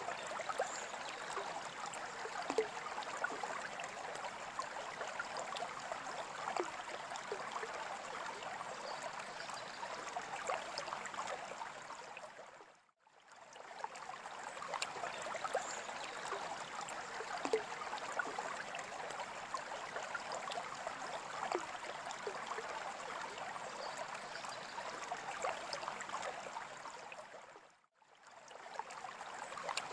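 Steady trickling and splashing of water in a freshwater aquarium, with small bubbling pops. It briefly fades out to silence and back in about halfway through and again near the end.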